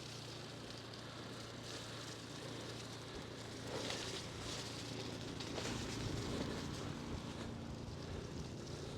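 Bicycle tyres rolling over snow and slush: a faint, steady crackling hiss.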